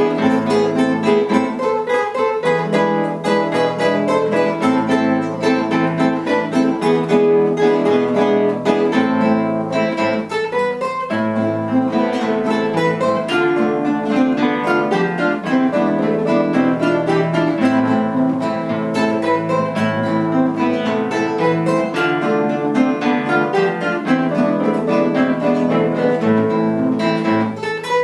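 Guitar ensemble playing an instrumental piece: several acoustic guitars plucking melody and accompaniment together in a steady flow of notes.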